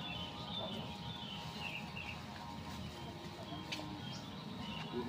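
Birds chirping in short, high, repeated calls over a low steady background rumble, with a light click a little past halfway.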